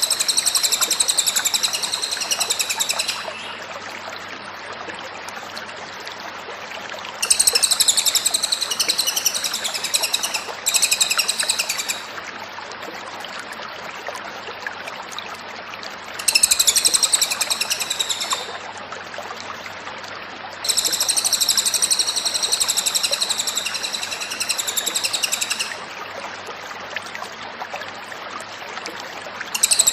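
Cililin bird singing: bursts of rapid, high trilled notes lasting one to five seconds each, five times, with short pauses between, over a steady rushing hiss.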